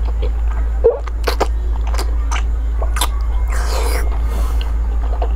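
Close-up chewing of a mouthful of braised pork belly, with several sharp wet mouth clicks and a short rush of noise about three and a half seconds in. A steady low hum runs underneath.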